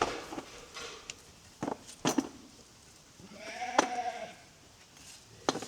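A single bleat from a sheep or goat, wavering and lasting about a second, in the middle, with sharp knocks of stones dropped into a metal bucket before and after it.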